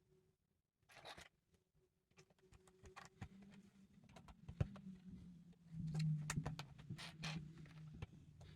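Lego bricks being handled and pressed together: a run of small sharp plastic clicks and taps, busier in the second half, with a brief rustle about a second in, over a low steady hum.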